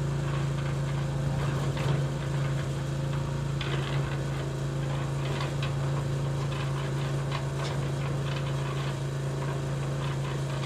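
A homemade mini tractor's small motor running steadily at one speed, a constant hum with a light clicking rattle over it.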